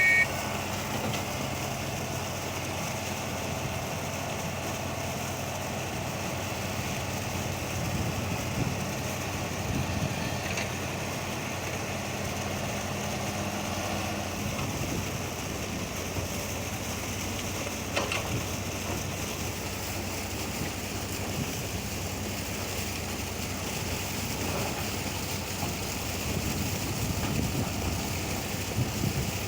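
Old Bedford truck's engine running steadily, with wind buffeting the microphone. A short high beep sounds right at the start.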